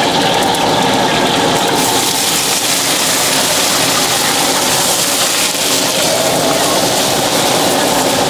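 Stir-frying frogs in a wok over a gas burner: a loud, steady rushing roar, with a high sizzling hiss that comes in about two seconds in.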